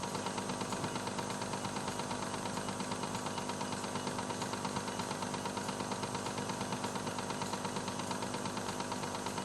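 Cassette player's motor and tape transport running: a steady whirring hum with tape hiss and an even flutter of about six or seven pulses a second.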